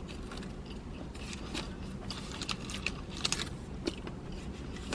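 A person chewing and biting food close to the microphone, with scattered small wet clicks and crunches, over a steady low rumble.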